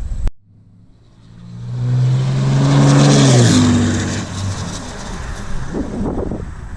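2016 Ram 2500's 6.7-litre Cummins turbo-diesel with a 5-inch straight-pipe exhaust and no muffler driving past: it swells in about a second in, is loudest around three seconds, drops in pitch as it goes by, then fades away.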